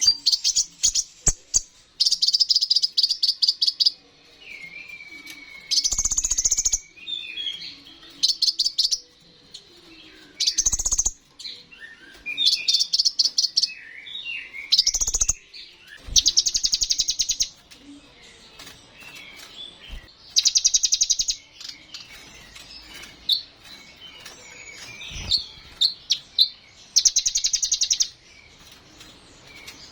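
Brown-throated sunbird (kolibri ninja) singing: a fast, high trill about a second long, repeated every couple of seconds, with softer twittering phrases in between.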